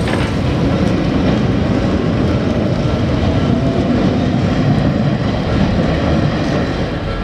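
An Izuhakone Railway Daiyuzan Line electric train passing over a level crossing, its wheels and running gear making a loud steady rumble, with the crossing's Odakyu-style electronic warning bell ringing beneath it. The rumble eases slightly near the end.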